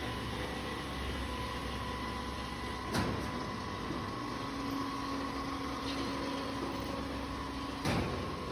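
Automatic copper tube end forming and flattening machine running: a steady mechanical hum with two sharp press knocks, about three seconds in and near the end.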